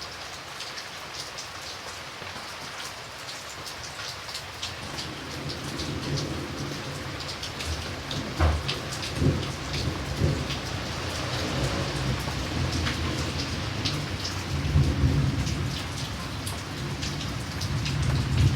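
Steady rain falling, with many separate drops heard within the hiss. Low rolling thunder builds in about a quarter of the way through and swells several times, with the strongest rumbles about halfway and near the end.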